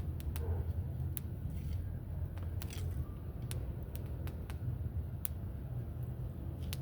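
Bonfire crackling: irregular sharp pops of burning wood and plants over a steady low rumble.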